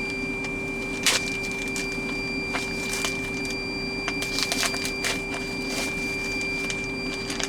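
A steady machine hum with a thin high whine, the loud noise that has just been apologised for, under scattered clicks and crinkles of plastic bags being handled.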